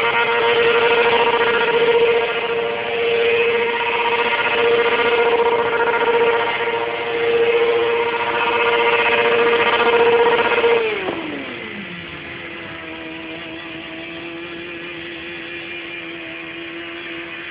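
Motorcycle engine held at high, steady revs during a smoky burnout, then the revs fall away sharply about eleven seconds in and it settles to a quieter, steady, lower note.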